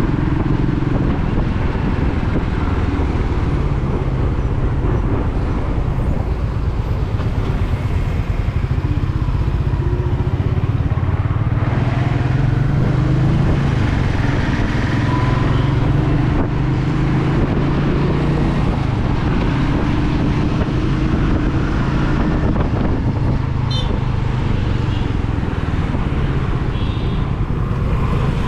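Royal Enfield Meteor 350's single-cylinder engine and exhaust running steadily while the motorcycle cruises.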